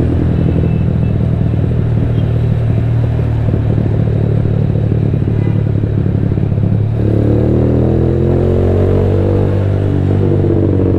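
Rusi Diablo motorcycle engine running loud while riding, through a Two Brothers exhaust with no silencer fitted. About seven seconds in, a higher engine note joins, rising slightly in pitch.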